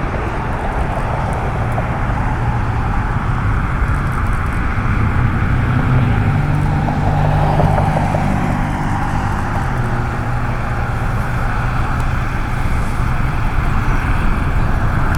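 Jet airliner's engines running as it flies past on its landing approach: a steady loud rush with a low, slowly shifting hum.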